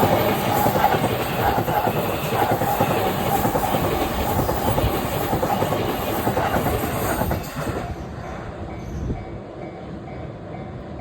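Chuo Line electric train passing at speed, its wheels clattering over the rail joints. The noise cuts off sharply about eight seconds in as the last car clears, leaving a much quieter background.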